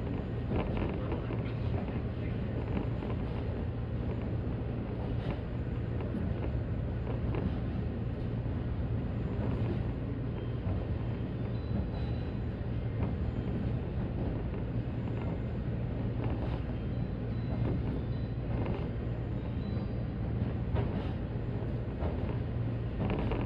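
JR 185 series electric train running at a steady speed, heard from inside the passenger car: an even low rumble with faint scattered ticks.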